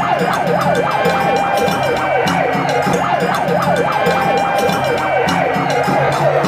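Emergency vehicle sirens in a fast yelp, the pitch sweeping up and down several times a second, with more than one siren overlapping.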